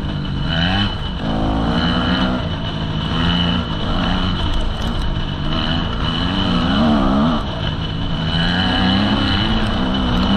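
Enduro dirt bike engine heard from the rider's seat, its revs rising and falling every second or two as the throttle is opened and closed while riding off-road.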